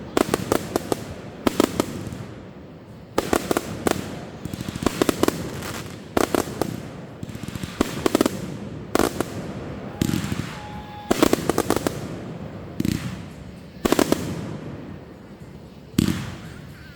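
Fireworks going off in quick succession: clusters of sharp bangs and crackles roughly every one to two seconds, each trailing off briefly.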